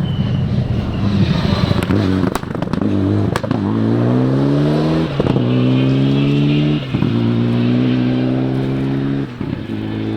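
Turbocharged four-wheel-drive rally car accelerating hard through the gears, its engine note climbing and dropping back at four upshifts. A few sharp cracks sound about two to three seconds in.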